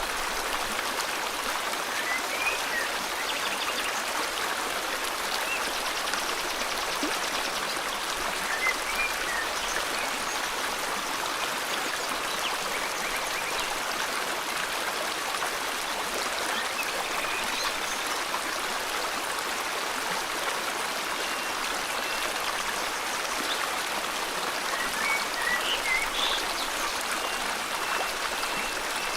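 Steady rush of flowing river water, with short bird chirps and whistles breaking in now and then over it.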